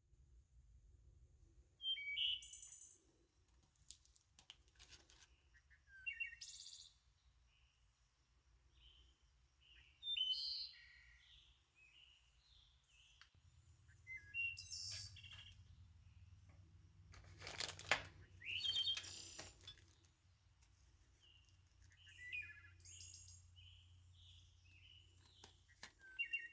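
A songbird chirping in short phrases every few seconds, with light clicks and crinkles of plastic packets and tools being handled.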